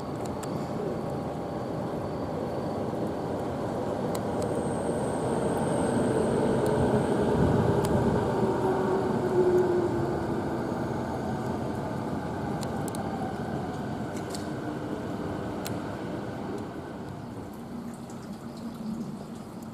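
A train running past on the tracks, swelling to its loudest about eight or nine seconds in and then fading, its motor tone sliding down in pitch as it goes by.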